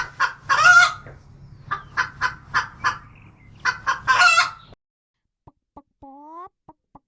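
Chicken clucking sound effect: a quick run of short clucks with two longer squawks, over a low steady hum, cutting off abruptly about two-thirds of the way through. A few faint short rising chirps follow near the end.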